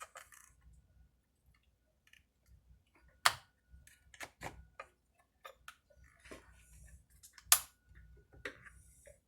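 Scattered clicks and light taps of small chainsaw parts being handled and fitted by hand, with two sharper clicks about three and seven and a half seconds in.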